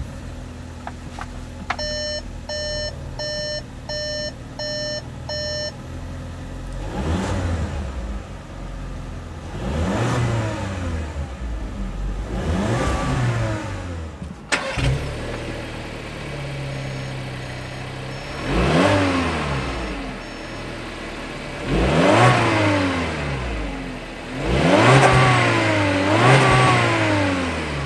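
Volkswagen Jetta's 1.4-litre turbo four-cylinder idling just after a push-button start, its throttle blipped about eight times, the revs rising and falling back each time, with the last blips the loudest. Early on, six evenly spaced warning-chime beeps sound from the car, and a fainter row of higher beeps comes later, along with one sharp click midway.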